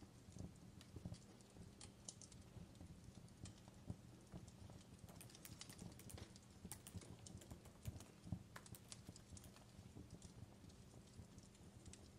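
Fireplace crackling softly: irregular small pops and snaps, a few louder ones, over a faint steady low hum.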